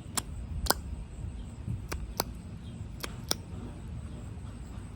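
Small sharp clicks and taps, about six of them, loosely in pairs, as a lip oil tube and its cap are handled and opened, over a low rustle of handling.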